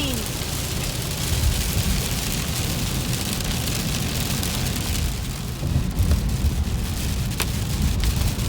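Rain and wet-road noise heard from inside a moving car: a steady hiss of rain and spray over a low rumble of tyres and engine, with one faint click about seven seconds in.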